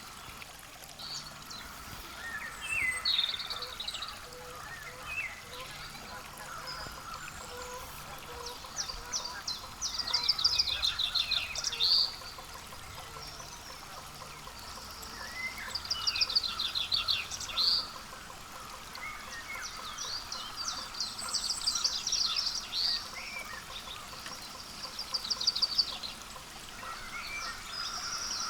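Songbirds singing: about five bursts of a quick trilled phrase, each about two seconds long, a few seconds apart, over faint steady outdoor background noise.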